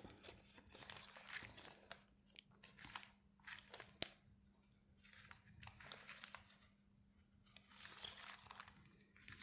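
Faint crinkling and rustling of paper and plastic packing tape being handled, in short patches, with one sharp click about four seconds in.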